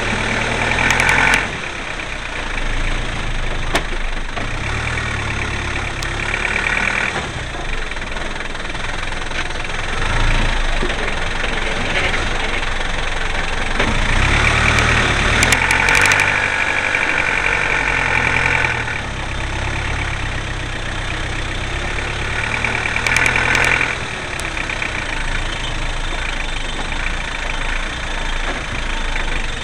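Land Rover engine running continuously as the vehicle drives off-road through mud and dirt. Several times the engine note rises and grows louder with a higher whine, longest about halfway through.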